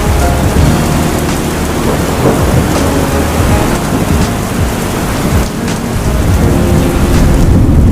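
Heavy rain falling steadily, with thunder rumbling low underneath.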